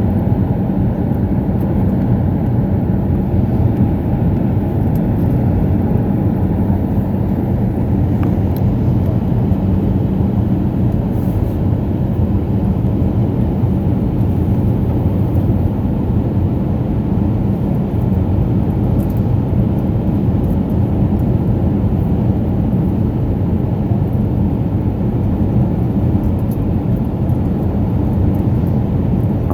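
Airbus A319 airliner cabin noise in flight: the steady, low drone of engines and airflow, with a faint hum underneath.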